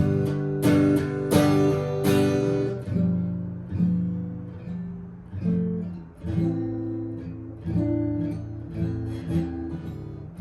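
Background music: acoustic guitar strumming chords, an instrumental stretch of a song.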